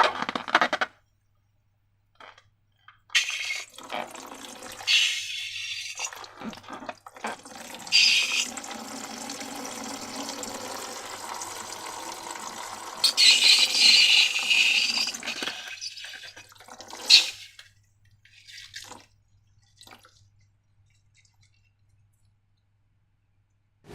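Thick liquid slime squelching and splattering as it is poured and worked, in several wet bursts, then a short sharp splat before it falls quiet.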